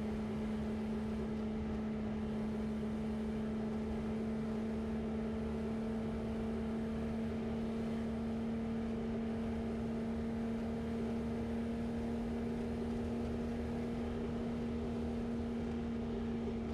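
1965 Chevrolet C10's inline-six engine and drivetrain running steadily, heard from inside the cab: a constant hum holding one pitch, over a low road rumble.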